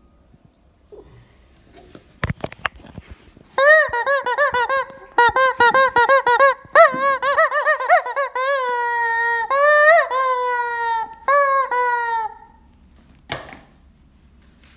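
Rubber squeaky chicken toy being squeezed again and again: a run of loud honking squeals whose pitch bends with each squeeze, short and quick at first, then longer held squeals of about a second each. A few light handling clicks come before the squeals and one after.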